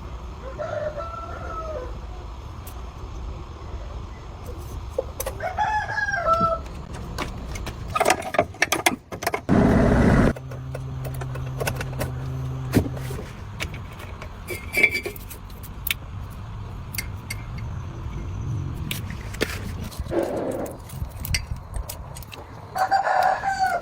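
Roosters crowing about four times, over scattered clicks and knocks. A loud burst of noise comes a little under ten seconds in, followed by a low steady hum for about two seconds.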